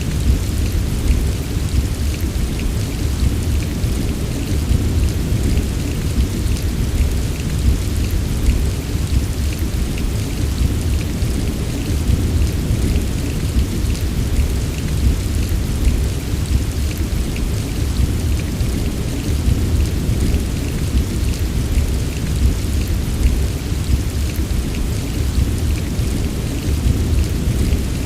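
Heavy steady rain with a constant deep rumble underneath, like a distant rolling thunderstorm, and no single loud thunderclap.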